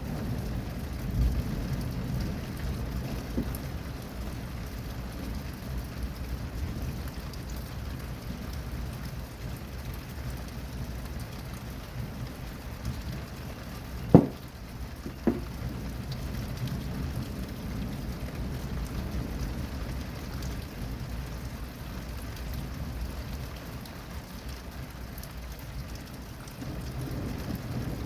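Steady rain falling, with a low rumble of thunder underneath. Two short, sharp knocks about halfway through, a second apart.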